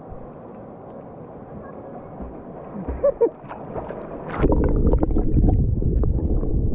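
River water rushing steadily. About two-thirds of the way through, a much louder, rough rumbling noise with scattered knocks takes over.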